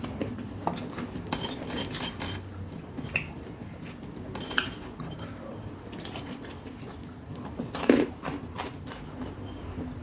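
Close-up eating sounds of fried snacks with sambal: scattered short clicks and clinks of food and a plate being handled between bites, with one louder knock about eight seconds in.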